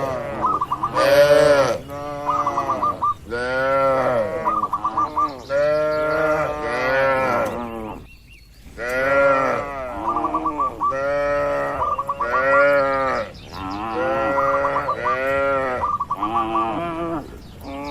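Cattle mooing over and over, call after call with little pause, each call rising and falling in pitch; the calls stop briefly about eight seconds in and then resume.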